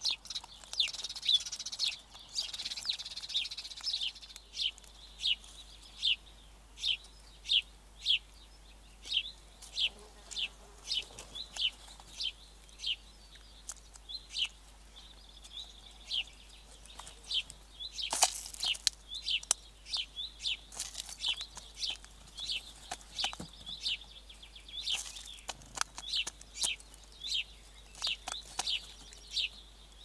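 Birdsong outdoors: short, high chirps repeated about once or twice a second, with a few louder, sharper notes among them.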